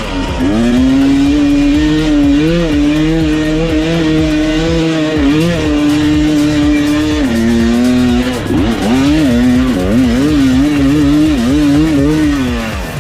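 Dirt bike engine running hard at high revs under load, its pitch mostly holding steady with small wobbles. It drops briefly about eight seconds in, then rises and falls quickly several times as the throttle is worked near the end.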